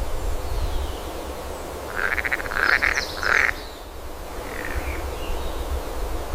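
A few short, rapidly pulsed animal calls, croak-like trills about two seconds in and a fainter one near the end, over a steady low rumble.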